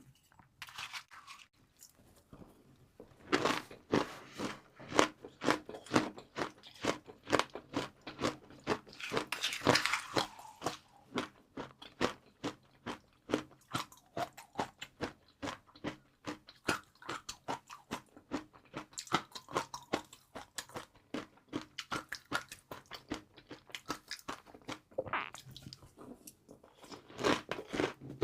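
Close-miked crunching and chewing of crispy fried noodles: a dense run of irregular crackling bites. It is quieter in the first few seconds and briefly again near the end.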